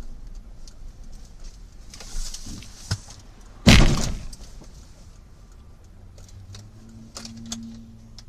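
A vehicle collision: one loud crash a little over three and a half seconds in, preceded by a sharp knock, over a faint steady rumble of traffic.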